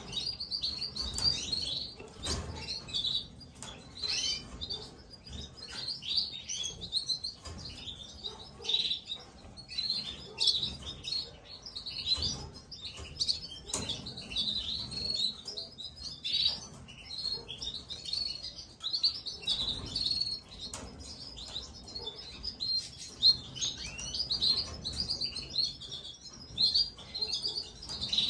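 Gloster canary chicks being fed by a parent, a constant stream of short, high chirps and cheeps. There are a few brief soft knocks.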